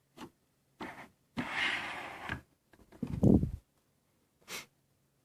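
Handling noises: a few short rustles and scrapes, and one louder dull knock about three seconds in, over a faint steady hum.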